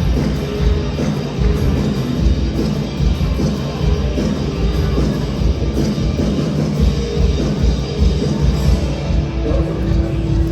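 Live church band playing a rock-style worship song intro, with drum kit and guitar.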